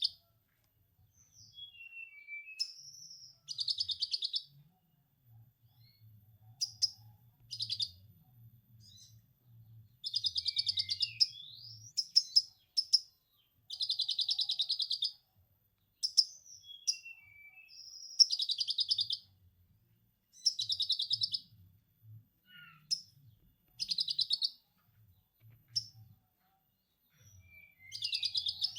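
A konin songbird singing a repeating run of rapid chattering trills, each about a second long, in the style of a lovebird's 'ngekek', broken up by short whistled notes and chirps. A faint low hum sits underneath.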